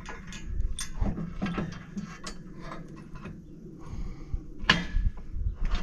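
Metal clinks, knocks and rattles of bolts and hand tools on the steel frame of a sawmill head unit being bolted together, with a sharper knock near the end.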